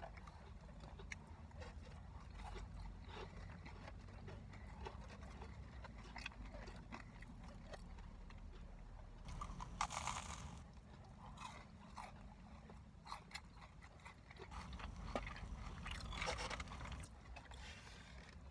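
A person chewing and biting fried food close to the microphone: small crunches and mouth sounds scattered throughout, with a louder bite about ten seconds in. A steady low rumble sits underneath.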